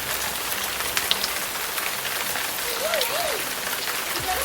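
Steady rain falling, a dense even hiss with fine ticks of drops striking. About three seconds in, two short rising-and-falling squeaks sound over it.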